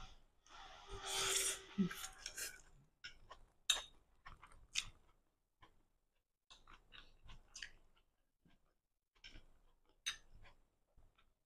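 Close-up mouth sounds of someone eating stir-fried flat rice noodles. A louder slurping stretch in the first two seconds is followed by irregular wet chewing, smacks and clicks, with short pauses.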